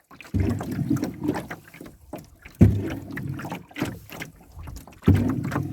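Canoe paddle strokes in lake water: three strong strokes about two and a half seconds apart, each a push of water that fades out, with small splashes and drips between.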